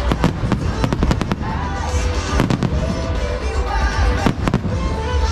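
Fireworks shells bursting in quick succession, with clusters of sharp bangs about a second in, around two and a half seconds, and just after four seconds, over music playing throughout.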